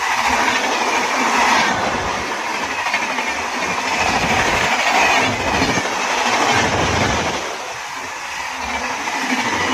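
Indian Railways train running along the track: a loud, steady rushing of wheels on rail, with low knocks about once a second as the wheels cross rail joints.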